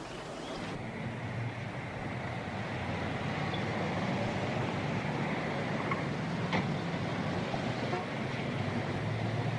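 A motor vehicle running steadily, growing a little louder over the first few seconds and then holding level.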